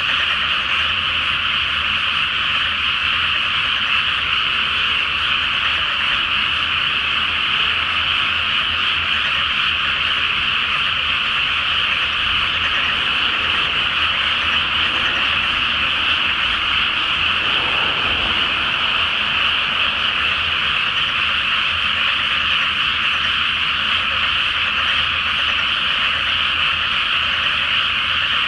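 Chorus of many frogs calling in a flooded rice paddy, a steady, unbroken din of overlapping croaks.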